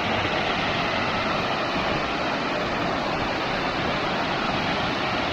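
Waterfall rushing with a steady, even noise.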